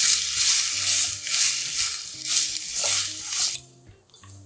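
Julienned carrots sizzling in hot oil in a nonstick frying pan as they are stirred with a spatula, the sizzle swelling and easing with each stroke. It dies away about three and a half seconds in.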